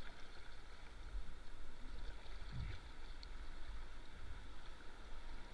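Steady rush of river water running over rocks in a small rapid, under a low rumble.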